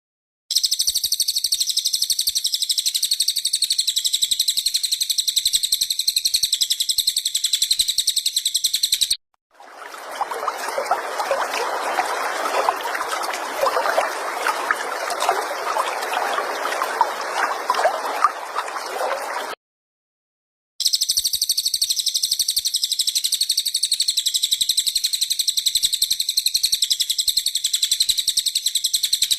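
Bird-song training recording of a cililin: a very high, thin, rapidly pulsing trill held for several seconds, cut off abruptly. After it comes a stretch of lower, rustling, crackly noise, then another gap and the high trill again.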